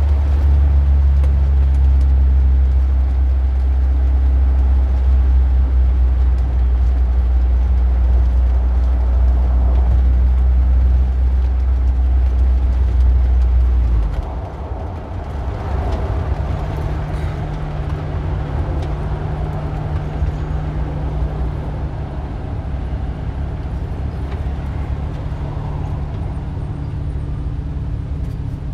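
Car engine running steadily with a deep, even hum. About halfway through, the sound changes to a rougher, noisier engine sound with less deep bass.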